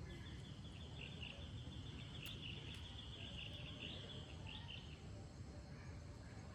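A wild animal's high, rapid trilling call that lasts about five seconds and then stops, over a low steady rumble of forest ambience.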